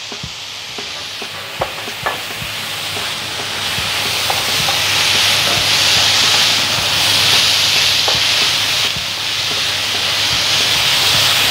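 Chicken and chopped mustard greens sizzling in a nonstick frying pan while being stir-fried with a spatula. The sizzle grows louder a few seconds in, with a few light clicks of the spatula early on.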